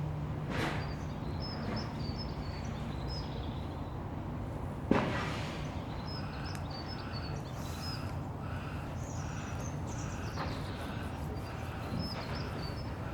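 Steady industrial background noise from a nearby furniture factory, with a low hum that stops about five seconds in, a sharp bang at the same moment and a few fainter knocks. Small birds chirp repeatedly over it.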